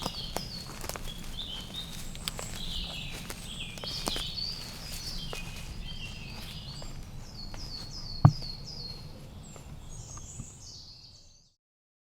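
Small woodland birds singing and calling in quick repeated chirps, with scattered footstep-like clicks and a single loud thump about eight seconds in. The sound fades out near the end.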